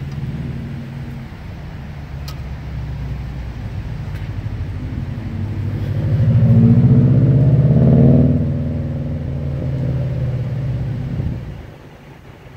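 A motor vehicle's engine running close by. It swells louder about six seconds in, eases off after eight, and drops away suddenly near the end.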